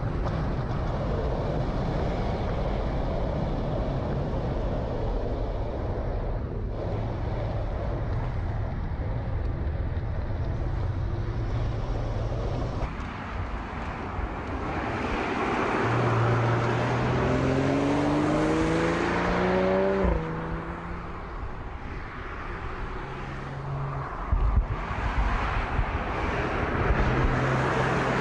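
BMW Z4 roadster on the road, with steady road and wind noise at first. The engine then accelerates, its pitch climbing for about four seconds before dropping sharply, and it is heard again briefly near the end.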